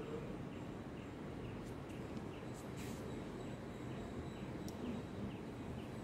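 A bird repeating a short, falling chirp about twice a second over steady low background noise, with a few sharper, higher chirps mixed in.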